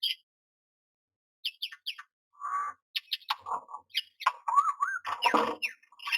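Common myna calling: a run of short chirps and harsh squawks, with a wavering whistle about four and a half seconds in.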